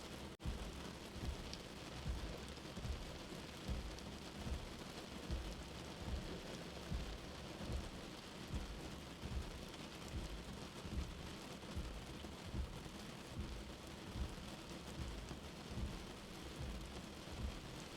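Steady soft rain with a slow, low heartbeat thump repeating about once a second underneath. The rain drops out briefly just under half a second in.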